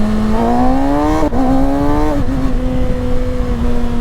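2021 Kawasaki ZX-6R 636's inline-four engine revving up under acceleration, with a quick upshift about a second in, then easing off near the halfway point to a steady cruise. Wind rumbles on the microphone throughout.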